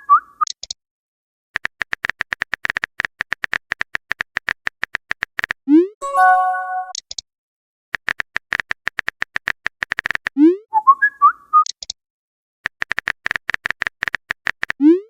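Messenger-style sound effects: three runs of rapid, even typing clicks, each followed by a short rising swoop and a bright chime of a few held notes as a message pops up. The cycle comes twice in full, and a third typing run starts near the end.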